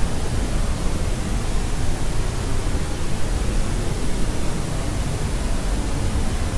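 Steady synthetic noise for soothing a baby to sleep, even and unchanging, weighted toward a deep low rumble like pink noise.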